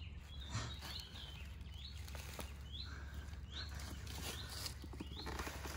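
A bird repeating a short, high, rising call roughly once a second over a steady low hum, with soft rustling in the grass.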